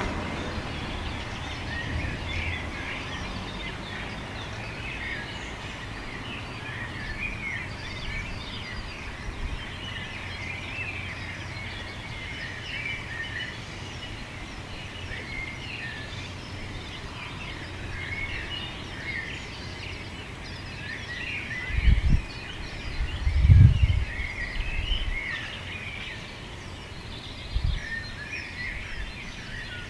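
Outdoor birdsong: many small birds chirping and singing at once, without pause. Three short low thuds about two-thirds of the way through and one more near the end stand out above it.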